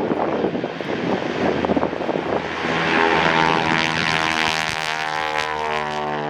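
Propeller airplane flying past: a rushing sound at first, then the engine's drone grows loud about halfway through and its pitch slowly falls as it goes by.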